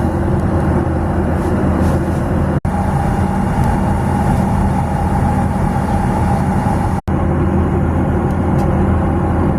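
Steady loud roar of a jet airliner's engines and airflow heard inside the cabin, with a deep hum underneath and a faint steady whine in the middle stretch. The sound drops out abruptly twice, at about two and a half seconds and seven seconds.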